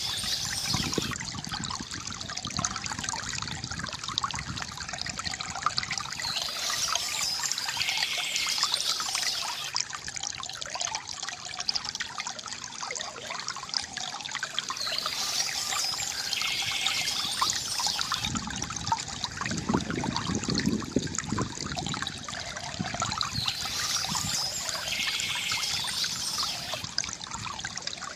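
Water trickling and gurgling steadily from a bamboo fountain, with a fuller, deeper gurgle for a few seconds past the middle.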